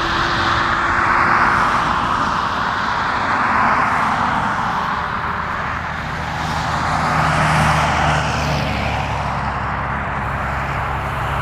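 Jet airliner engines running: a loud, broad rush that swells and eases several times, with a low steady hum joining about halfway through.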